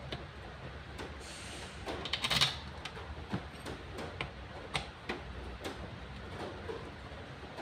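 Scattered light clicks and knocks, with a brief scraping rattle about two seconds in: parts and tools being handled while a Stihl BT131 post-hole borer is put back together.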